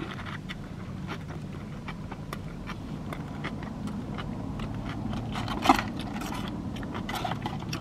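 Close-up eating sounds: biting into and chewing a double cheeseburger, with many small wet mouth clicks and one sharper click a little over halfway, over a low steady hum.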